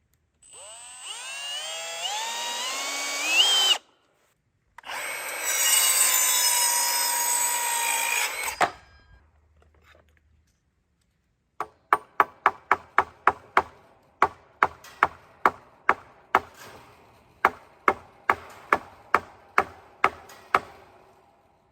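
Power drill run twice into wood, speeding up with a rising whine the first time and running steadily the second, while fence rails are fixed to posts. Then a hammer strikes wood over and over, about three blows a second with short pauses.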